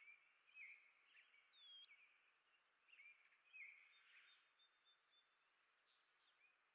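Faint chirps and short calls of small songbirds, several in quick succession over the first few seconds, including one sweeping whistled note about two seconds in, over a steady background hiss.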